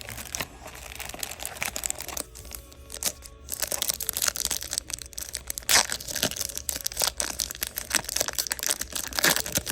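Trading cards and their packaging handled by hand: a dense run of crisp clicks, crinkling and rustling, louder in the second half.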